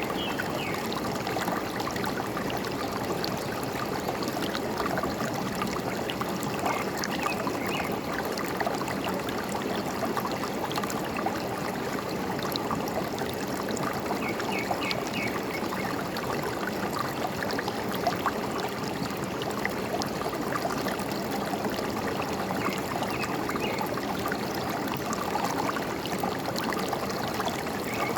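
Forest stream running steadily, with a bird giving short runs of quick high chirps every several seconds.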